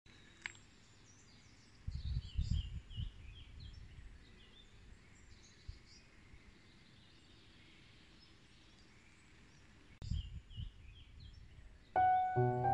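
Quiet outdoor ambience with small birds chirping and singing throughout. There are brief low rumbles about two seconds in and again near ten seconds. Piano music starts just before the end.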